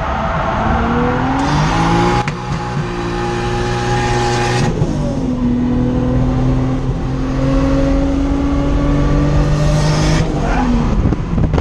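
Nissan RB25DET turbocharged straight-six in a 240SX (S14), heard from the cabin while driven hard: engine pitch climbs in the first two seconds and holds, drops sharply about halfway through, runs steady at high revs for several seconds, then falls away near the end as the throttle is lifted.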